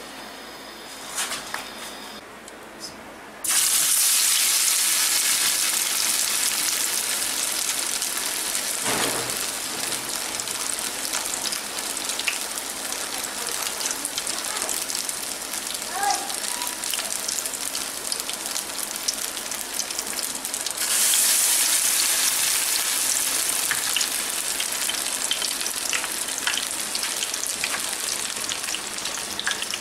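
Raw chapli kabab mince hits hot oil in an aluminium frying pan and starts to sizzle loudly about three seconds in, then fades slowly. More mince goes in about two-thirds of the way through, bringing another sudden burst of sizzling.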